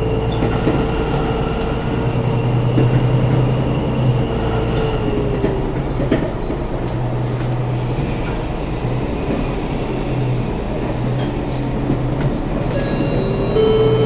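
Bus in motion heard from inside, with a steady rumble and a drive whine that falls in pitch about five seconds in as the bus slows. Near the end a high, repeating electronic tone sounds, and the whine rises again as the bus pulls away.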